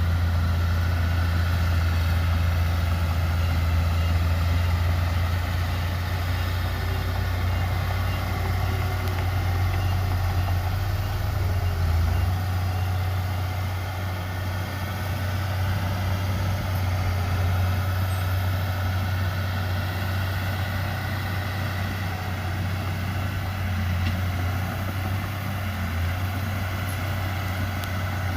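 Heavy diesel earthmoving machinery running steadily under load, a deep continuous engine drone with no pauses.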